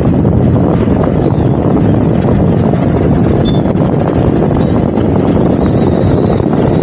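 Loud, steady wind rush over the camera microphone on a moving motorcycle, blended with the motorcycle's running noise.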